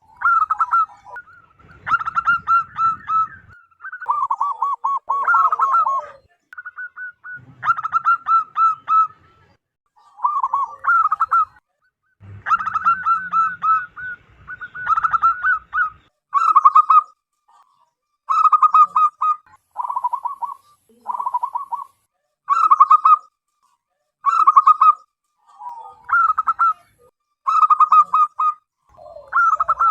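Zebra doves cooing: repeated short phrases of rapid staccato notes, one every couple of seconds, with calls overlapping in the first half.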